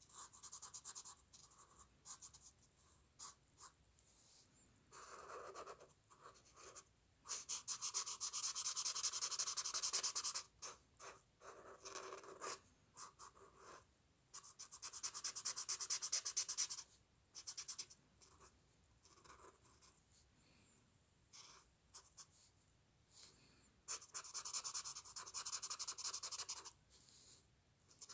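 A drawing tool scratching on paper while a picture is drawn by hand: short separate strokes, and three longer stretches of rapid back-and-forth strokes.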